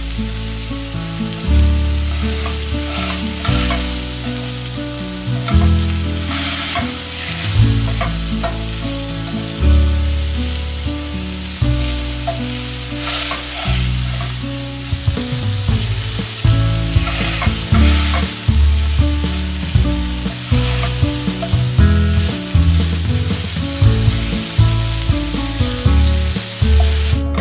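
Ground-beef patties sizzling in a hot nonstick frying pan, with a slotted spatula scraping the pan several times as they are turned. Background music with a bass line plays throughout.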